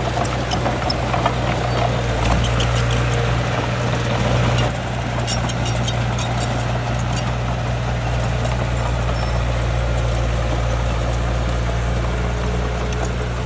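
Heavy diesel earthmoving machinery running steadily at a constant engine note, with scattered sharp clanks and rattles over it, most of them a few seconds in.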